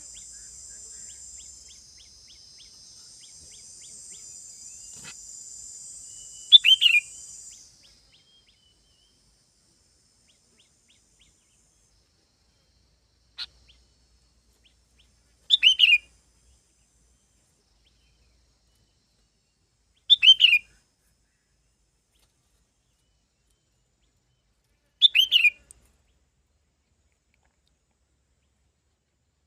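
A songbird repeating a short call of a few quick, falling whistled notes, four times about five seconds apart. A steady high buzz runs under the first call and stops about eight seconds in.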